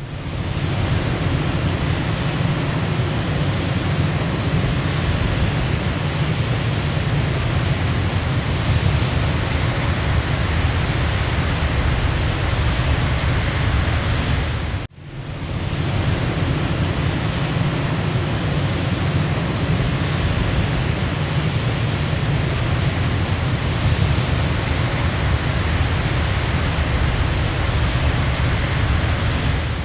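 Waterfall: a steady rush of falling water, heavy in the low end, that cuts out for a split second about halfway through and fades back in.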